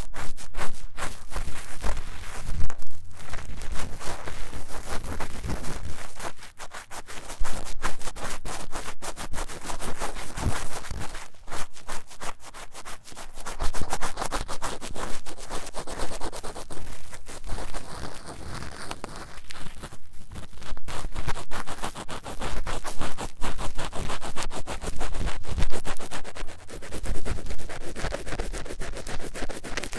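Ear-cleaning tool scratching fast and hard inside the silicone ear of a 3Dio binaural microphone: a dense run of rough scraping strokes with a few short pauses.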